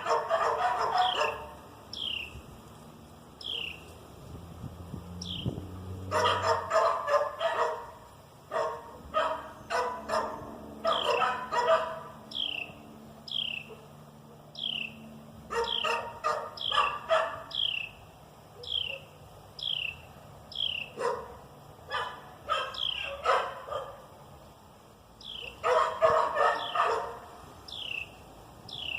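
A dog barking in runs of several quick barks, starting and stopping every few seconds. Behind it, a high, short falling chirp repeats steadily about once a second, a night-time animal call.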